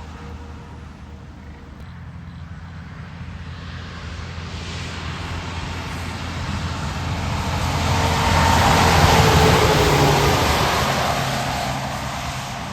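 A truck approaching, passing close about eight to ten seconds in, and moving away: a low engine drone under tyre hiss that builds, peaks and fades, its pitch dropping as it goes by.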